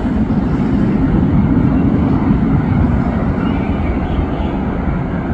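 Jet airliner passing low on its landing approach, its engines giving a steady low rumble.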